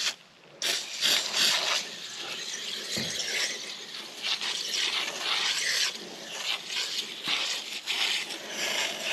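Aerosol can of Nu-Calgon Evap Foam no-rinse coil cleaner spraying a narrow, laser-beam-like jet onto the fins of an RV air conditioner's coil. The hissing spray starts about half a second in and runs on, rising and falling in strength.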